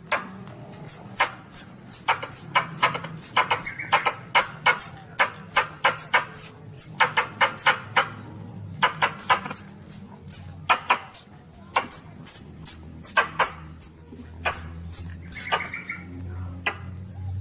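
Young Asian palm civet squeaking: a rapid, irregular run of short, very high-pitched falling squeaks, about two to three a second, over a faint low hum.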